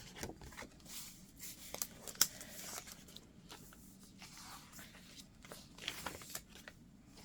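Paper pages and tucked cards of a chunky handmade junk journal being handled and turned: faint scattered rustles and light taps, a few sharper near two seconds in.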